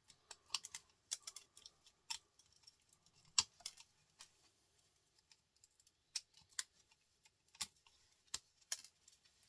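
Irregular sharp clicks and taps of small metal and plastic printer parts and a small motor being handled, with near-quiet gaps between them; the loudest tap comes about three and a half seconds in.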